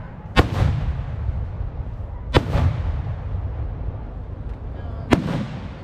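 Aerial firework shells bursting, three sharp booms about two seconds apart, each trailing off in a brief echo.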